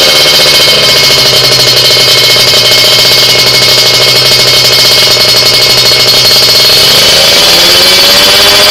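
Kawasaki Ninja 150's two-stroke single-cylinder engine running loud through an aftermarket exhaust. The pitch drops at the start, holds steady, then rises again about seven seconds in as the throttle is opened.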